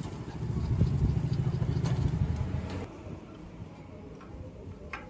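A motor running with a low, pulsing hum, louder for the first three seconds and then dropping lower.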